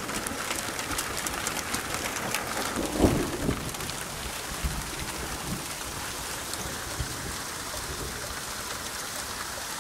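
Hail shower: hailstones and rain falling and striking the ground, with many small sharp ticks over the first few seconds, a louder thump about three seconds in, then a steadier hiss.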